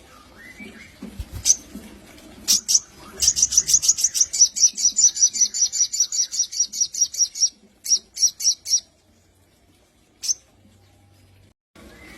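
Sogon songbird calling: a few sharp, high chips, then a fast trill of evenly repeated high notes lasting about four seconds, then a short run of chips and a last single chip.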